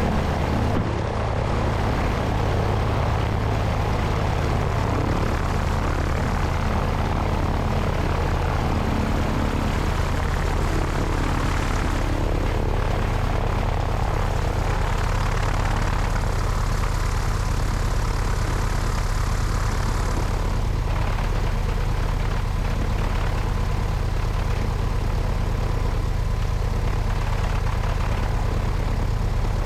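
Cessna 172's piston engine and propeller running steadily, heard from the wing with wind noise over the microphone.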